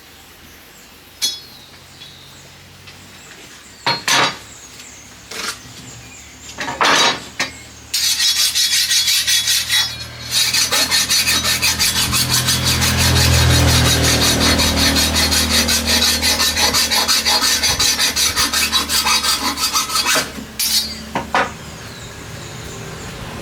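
Green bamboo being split and cut by hand. Several sharp knocks come in the first seven seconds, then about twelve seconds of fast, steady rasping strokes of a tool working through the bamboo, which stop suddenly and are followed by a couple more knocks.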